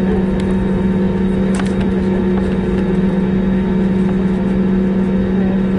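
Cabin noise of an Airbus A321neo taxiing, its CFM LEAP-1A turbofans giving a steady low drone under a constant rushing hiss, with a few faint clicks.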